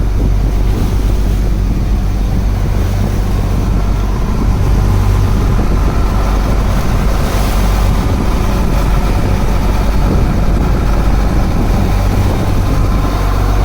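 Fishing boat's engine running steadily with a low hum, with wind noise on the microphone.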